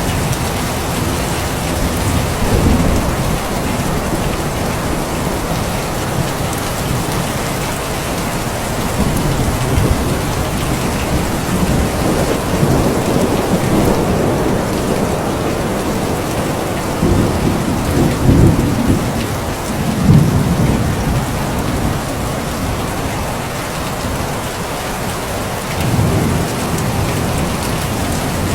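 Steady rain falling, with low rolls of thunder swelling up several times, the loudest a little past the middle.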